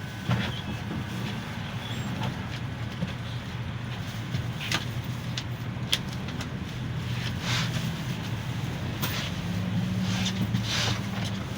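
GAZelle Next minibus heard from inside the cabin while riding: a steady low engine and road drone, with scattered rattles and knocks from the body and fittings.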